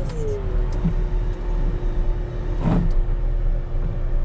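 Volvo rubber-tire wheel loader's diesel engine running steadily, with a whine that drops in pitch at the start and then holds level. A brief hiss with a low thump about two and a half seconds in.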